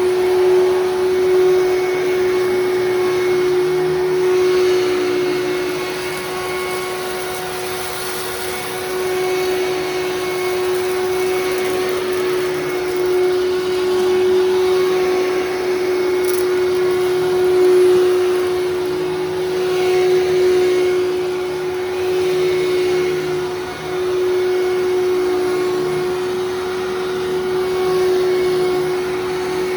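A 1996 Fantom Thunder vacuum cleaner running as it vacuums, a steady motor hum that swells and dips a little in level. The owner says its motor runs kind of rough.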